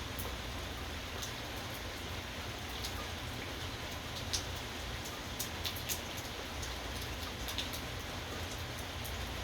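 Steady rain falling as an even hiss, with scattered sharp ticks of single drops striking close by.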